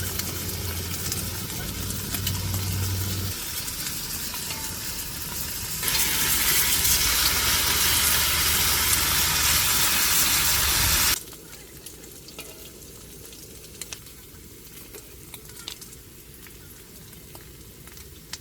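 Food sizzling and frying in a pan, loudest in the middle stretch, then dropping suddenly to a quieter hiss with scattered small crackles about eleven seconds in.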